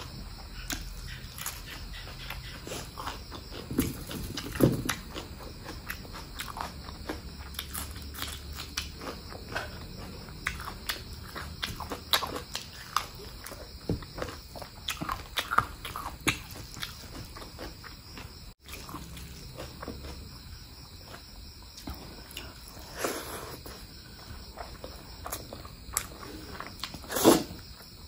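A person eating spicy mutton fat curry with rice: chewing and biting in a steady run of small mouth clicks and smacks, with a louder bite about five seconds in and another near the end.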